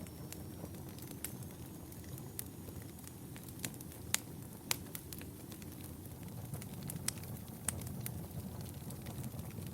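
Wood fire burning in a fireplace: a steady low rumble of flames with irregular sharp crackles and pops, a few louder snaps about four to five seconds in.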